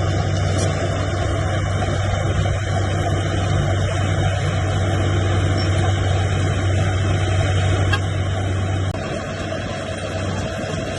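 A bulldozer's diesel engine running under load, a steady low drone with track and machinery noise. The engine note drops away about nine seconds in.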